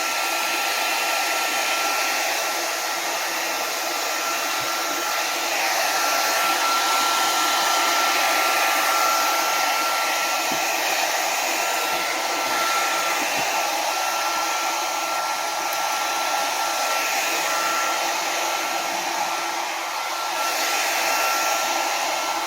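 Hand-held hair dryer blowing steadily to dry a wet dog after its bath. A thin steady whine sits above the rush of air, and the level rises and falls a little as the dryer is moved.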